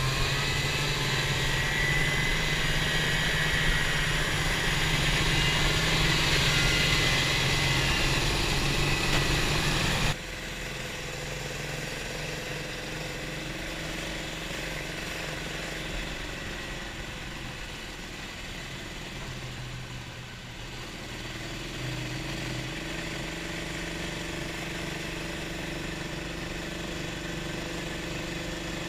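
Snowmobile engine running steadily; about a third of the way through the sound drops abruptly to a quieter, steady idle-like running.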